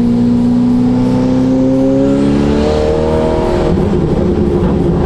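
Ferrari F8 Tributo's twin-turbo V8 running through a full catless Ryft exhaust under way, its pitch climbing slowly and stepping down once about two and a half seconds in. Near the end the steady tone breaks up for about a second into a rougher, uneven sound before settling again.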